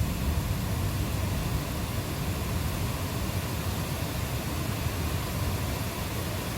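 Steady rain falling, an even hiss, under a low rumble of distant thunder that is strongest at the start and eases a little.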